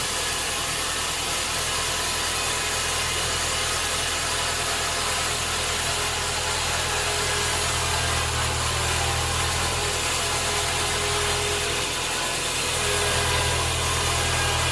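Sawmill machinery running steadily: a low motor hum under a constant hiss, swelling from about eight seconds in, dipping briefly, then swelling again near the end.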